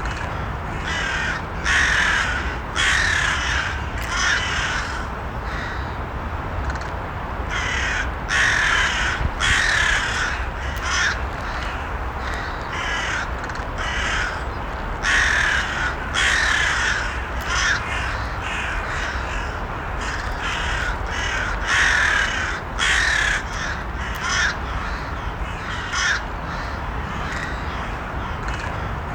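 Crows cawing in bouts of several short caws, one bout every few seconds, over a steady low background rumble.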